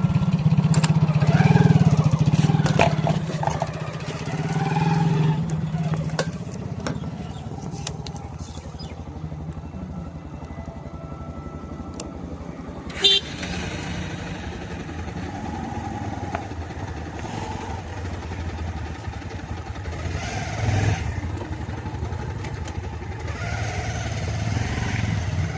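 Motorcycle engine running steadily while riding, loudest in the first six seconds. There is a brief sharp sound about thirteen seconds in.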